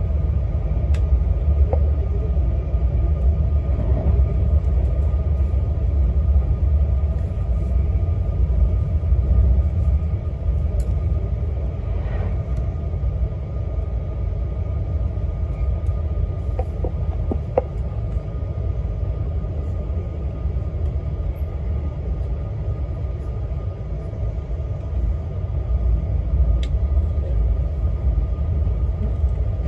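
Running noise of an E6 series Shinkansen train heard from inside the passenger car: a steady low rumble of wheels on rail with a faint steady whine and a few faint clicks.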